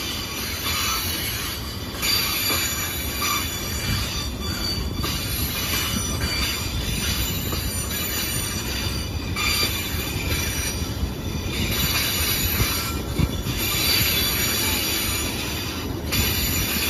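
Freight train of fuel tank cars rolling past, a steady rumble of steel wheels on rail with a thin, high-pitched wheel squeal over it.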